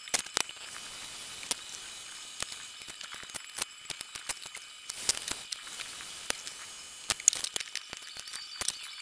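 Small variable-speed rotary grinder running on a phone logic board, a steady high hiss with scattered sharp clicks and ticks.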